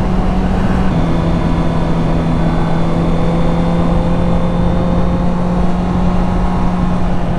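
A Honda CB650F's inline-four engine running at a steady cruise, its note dipping slightly about a second in and then holding, with wind rush underneath.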